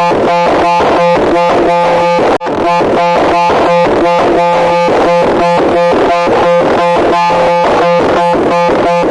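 Loud, harsh electronic buzzing tone pulsing rapidly and evenly, about four pulses a second, with a brief break about two and a half seconds in.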